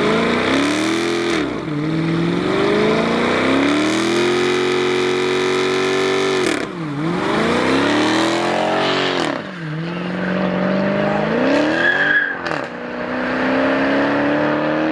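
A performance car's engine revving hard as it accelerates away, its pitch climbing and dropping back four times, once holding one high pitch for about two seconds.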